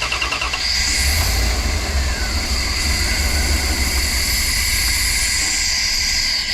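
1998 Dodge Ram B250 van engine cranking on the starter, then catching on the sprayed-in fuel about half a second in and running for several seconds with a high whine. The owner suspects a fuel-supply problem, since it will not keep running on its own.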